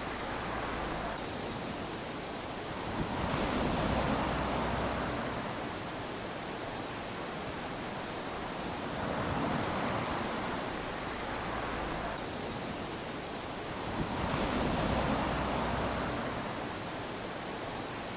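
Small waves lapping onto a sandy shore, the wash swelling and receding about every five or six seconds over a steady hiss of surf.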